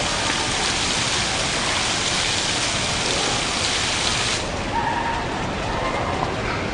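Water falling steadily from a valve-controlled digital waterfall and splashing down, a dense steady rush; about four seconds in the high hiss drops away, leaving a duller rush.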